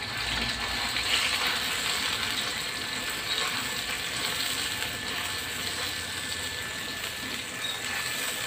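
Wet blended spice paste sizzling in hot oil in a wok as its water cooks off, with a spatula scraping and stirring it against the pan.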